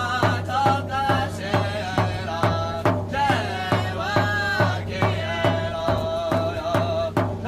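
Drumming at a steady pulse of about two beats a second, with voices singing over it.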